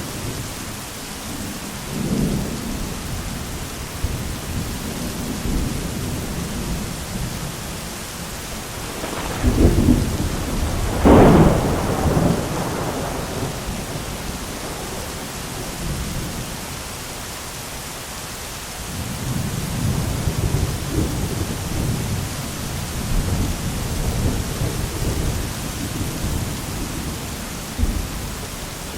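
Thunderstorm: steady heavy rain with rolling thunder. About nine seconds in a sharp crack of nearby thunder comes, followed by a louder clap that rumbles on, and the low rumbling swells again in the second half.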